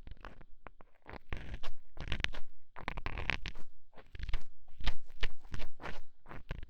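Ear-cleaning ASMR on a binaural microphone's ear: an ear pick or bonten scratching and rubbing right at the mic, in quick, irregular strokes with a low rumble underneath.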